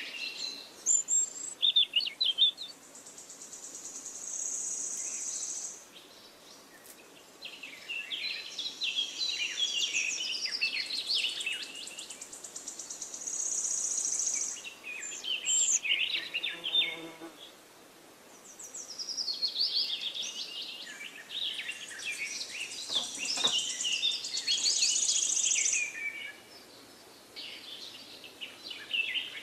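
Songbird singing in repeated phrases of high chirps, falling notes and fast buzzy trills, with short pauses between phrases.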